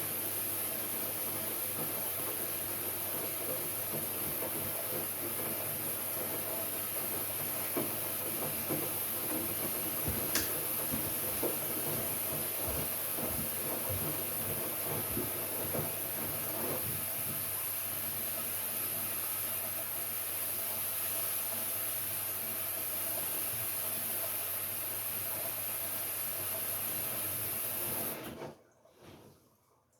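LG Direct Drive 8.5 kg front-loading washing machine running mid-cycle: a steady hum and hiss with a few light knocks. The sound stops suddenly near the end.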